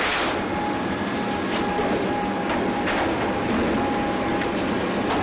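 Steady mechanical noise with a faint constant whine and a few brief clicks.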